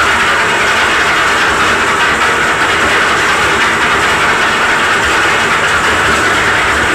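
Concrete mixer running steadily, its engine and turning drum making a loud, unbroken mechanical noise.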